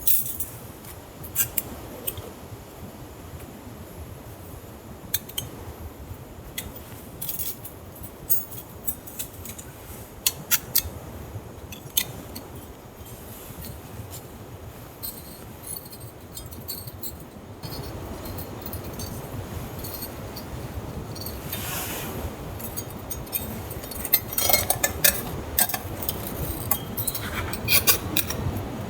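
Camp gear being handled: scattered light metallic clinks and clatters, over a steady background hiss that gets louder about two-thirds of the way through.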